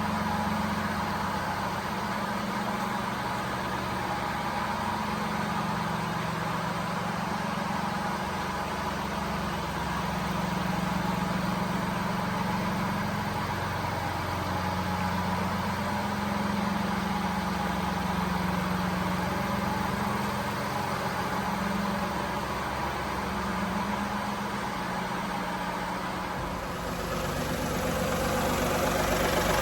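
1999 Daihatsu Hijet kei truck's small three-cylinder engine idling steadily, its low hum wavering slightly. The sound changes and gets a little louder near the end.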